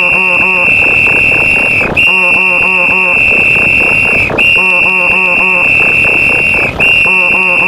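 A referee whistle blown in long, steady blasts, each a little over two seconds, repeating with short breaks about three times. Under it runs a dense, loud jumble of other layered sound effects.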